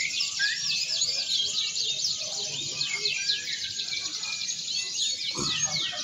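Many domestic canaries singing at once in a contest, a dense tangle of overlapping rapid trills and chirps. A brief low thump comes near the end.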